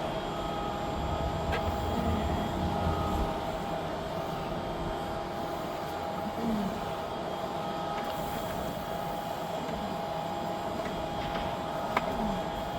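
Wind buffeting the microphone, strongest in the first few seconds, over a steady mechanical hum, with a couple of sharp clicks, the loudest near the end.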